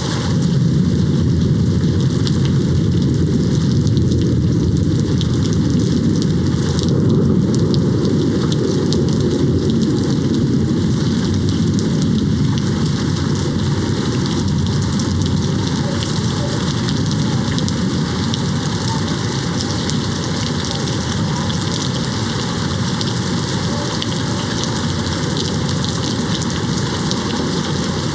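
Steady heavy rain falling on a window, with a low rumble of distant thunder rolling through the first half and gradually easing off.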